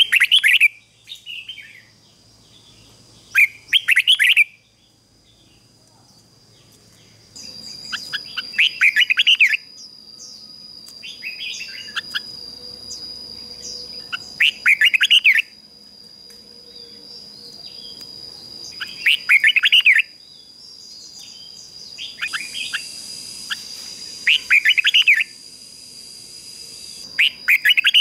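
Red-whiskered bulbul singing: short, quick warbled phrases repeated every two to four seconds, the song of a decoy bird used to call in wild bulbuls. A thin, steady high-pitched tone runs in the background from about seven seconds in.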